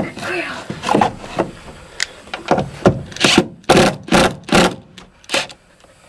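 Wood being knocked and shifted by hand: a run of separate knocks and scrapes, with a cluster of about five louder ones about halfway through.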